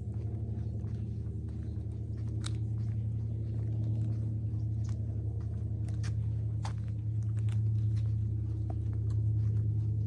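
Footsteps crunching with scattered short clicks, over a steady low hum.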